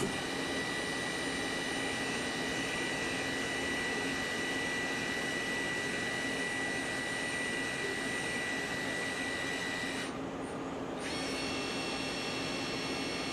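CNC lathe running, a steady high whine over continuous machine noise. About ten seconds in the whine stops for a second, then comes back at a different pitch.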